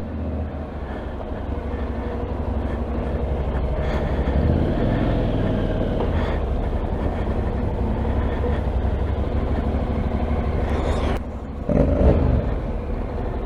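A vehicle engine running steadily with a low, even hum. About 11 seconds in the sound changes abruptly, and a louder burst follows about a second later.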